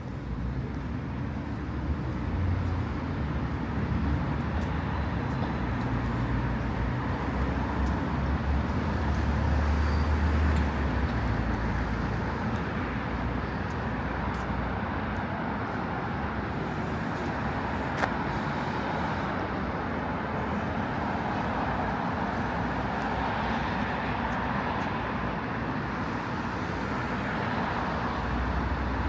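Road traffic on a city street: a steady wash of passing cars and tyre noise, with a louder, deeper pass about ten seconds in.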